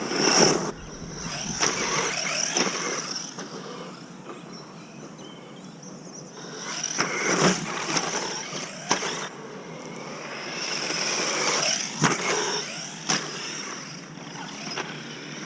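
Electric 1/10-scale RC monster truck running on a 2S battery, its motor whining high in several bursts as it accelerates and lets off, with sharp knocks and clatter as it hits bumps and lands.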